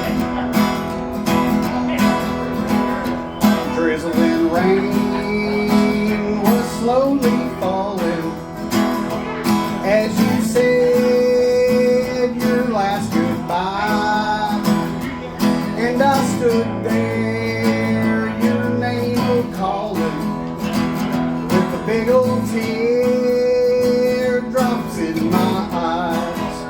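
Country band playing an instrumental intro: strummed guitar with a steady bass line underneath, and a lead instrument playing melodic lines that slide and bend in pitch.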